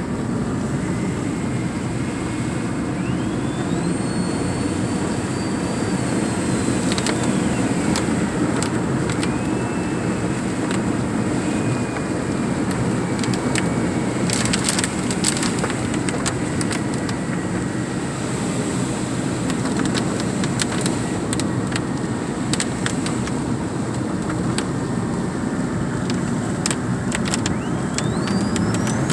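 Honda Accord driving, heard from inside the car: steady engine and road noise, with a faint whine that slowly rises and falls and scattered sharp clicks.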